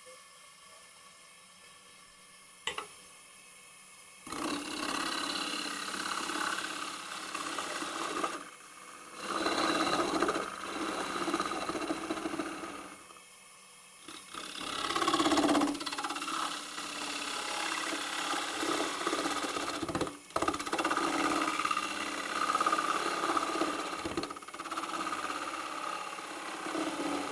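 Turning tool cutting dry magnolia wood on a spinning lathe, taking light passes to cut off the bowl's tenon. The rough cutting noise starts about four seconds in and runs in several passes with short breaks between them.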